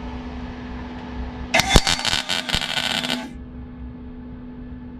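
Welder laying a single tack weld on car body steel: a crackling arc burst of about a second and a half, starting about a second and a half in, over a steady hum.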